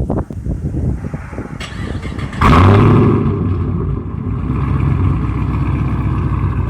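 Pontiac G8 GT's 6.0-litre V8, straight-piped with long-tube headers and no catalytic converters, being cranked and then firing up about two and a half seconds in with a loud flare. It then settles into a steady idle through the open exhaust.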